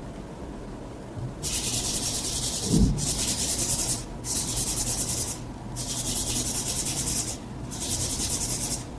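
Five bursts of high, hissing noise, each about a second long with short gaps between, starting and stopping sharply; a low thump comes about three seconds in.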